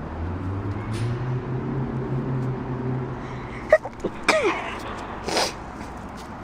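Cat sneezing: a sharp snap, a short falling squeak, then a hissy burst, all within about two seconds in the second half. Before them a low steady hum runs through the first three seconds.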